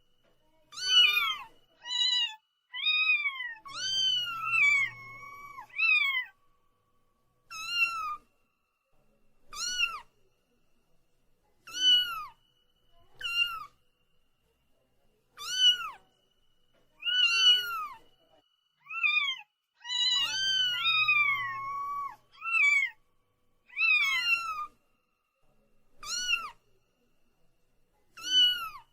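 A cat meowing over and over in separate calls, roughly one every one and a half to two seconds, each rising then falling in pitch. Two of the meows, about four seconds in and again about twenty seconds in, are longer and drawn out.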